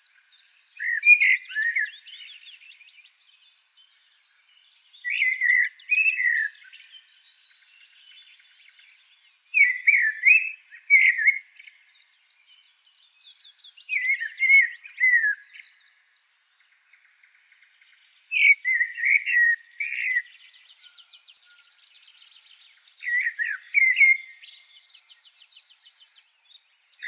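Songbirds singing: one bird repeats a loud phrase of two or three notes about every four and a half seconds, while fainter, quicker trills from other birds fill the gaps.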